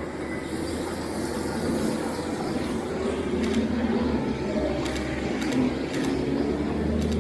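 Steady city traffic: vehicles running past with a low engine rumble and road noise, and a few faint ticks in the middle.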